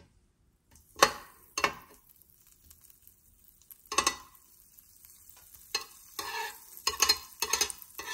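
Grilled cheese sandwich frying on an electric griddle: a faint steady sizzle, broken by several short bursts of scraping and sizzling, a few near the start and a quick cluster near the end.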